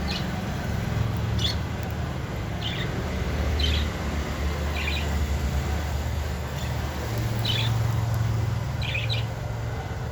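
Budgerigars giving short, separate chirps, about one every second or so, over a steady low rumble.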